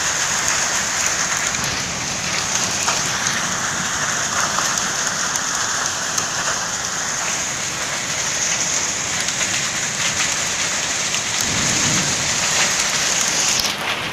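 Heavy monsoon rain pouring steadily, heard from inside a room. A brief low rumble comes about three-quarters of the way through, and the high hiss of the rain drops away sharply near the end.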